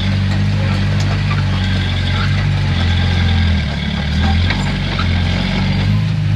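Heavy earthmoving machine's diesel engine running steadily under work. Its note dips lower for a moment a little past halfway, then recovers.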